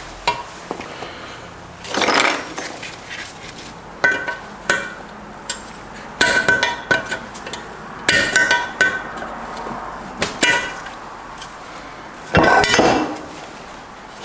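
Steel parts of a Subaru six-speed transmission clanking and clinking against each other as they are handled: a string of irregular metal knocks, some with a short ringing note, the loudest clatter near the end.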